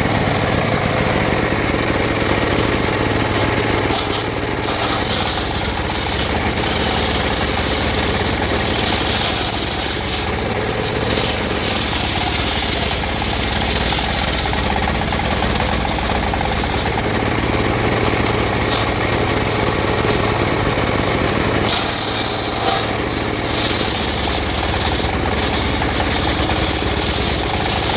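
Engine of a wood-sawing machine running steadily.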